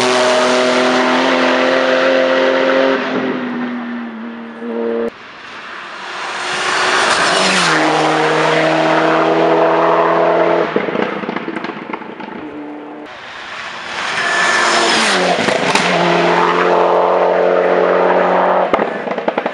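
Hillclimb race cars passing at full throttle, three in turn, each engine's pitch dropping sharply as it goes by, then holding high as it pulls away.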